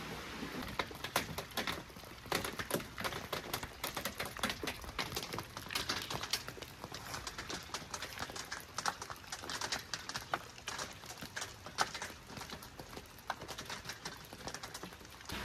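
Raindrops pattering on a hard surface: a dense, irregular run of sharp taps over a steady hiss.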